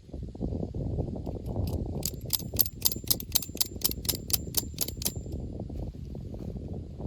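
A quick, even run of about a dozen sharp clicks, roughly four a second, starting about two seconds in and stopping about three seconds later, over a steady low rumble.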